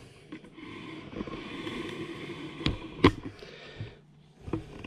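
Nylon tent fabric being handled: a scraping rustle lasting about two seconds, then two sharp clicks a little under half a second apart and a few fainter knocks.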